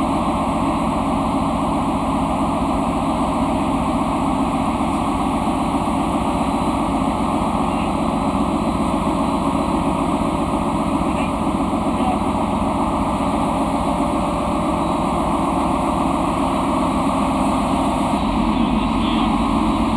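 Ship's machinery running with a loud, steady drone that holds an even pitch and level throughout.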